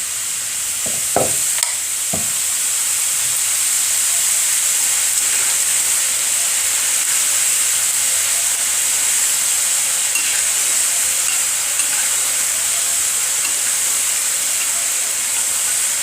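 Kapnya, pieces of jaggery-sweetened dough, sizzling as they deep-fry in hot oil; the hiss builds over the first few seconds as they go in, then holds steady. A couple of light knocks sound about one and two seconds in.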